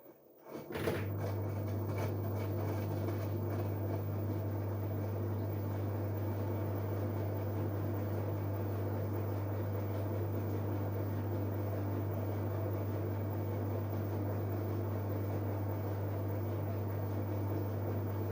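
LG Direct Drive 8.5 kg washing machine switching on with a click about a second in, then running with a steady, even hum and a low tone for about 17 seconds before shutting off at the end.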